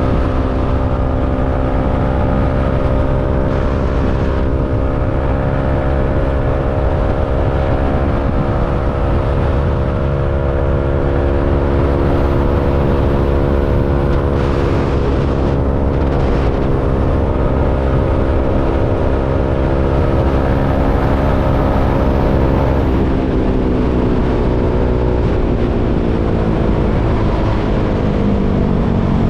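KTM Duke 390's single-cylinder engine running at a steady, slowly drifting speed, its pitch falling over the last several seconds as it eases off, over a constant low rumble.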